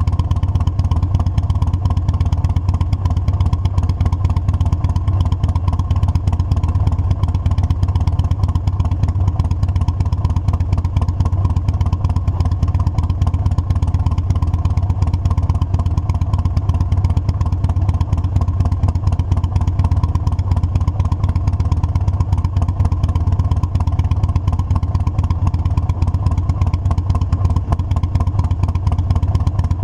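Motorcycle engine running at a steady speed, a constant low hum with no changes in pitch.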